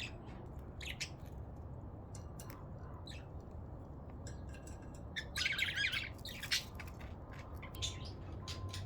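Budgerigars chirping in short scattered calls, with a denser burst of chattering about five seconds in, over a steady low rumble.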